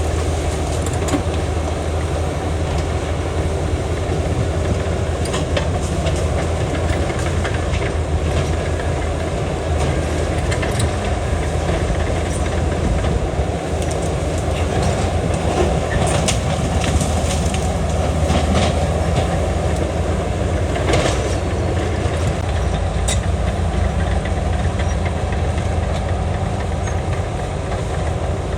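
Bulldozer working: its diesel engine running steadily under load, with continuous clatter from the tracks and scattered sharp metallic clanks.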